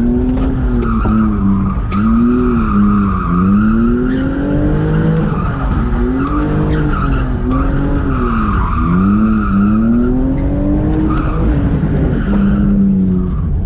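BMW E46 drift car drifting: the engine's revs rise and fall over and over as the throttle is worked, over a steady tire squeal. The tires are dry-rotted run-flats, and one gives out around this run.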